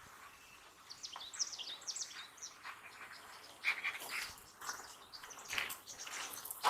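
A songbird singing a quick run of high, falling chirps, followed by scattered clicks and scrapes.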